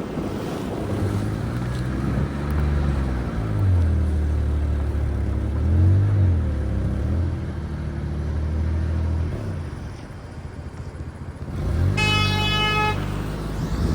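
A car engine running and revving up and down. Near the end a car horn sounds once for about a second.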